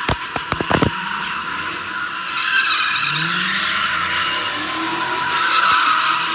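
Car tyres skidding, with a quick run of sharp pops in the first second.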